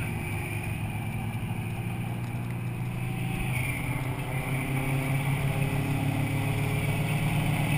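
V8 car engine and exhaust running steadily at cruising speed, heard from inside the cabin. The engine note grows a little louder over the last few seconds.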